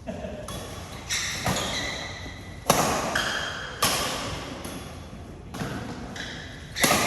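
Badminton rackets striking a shuttlecock in a rally, a series of sharp smacks about a second apart that echo in a large hall.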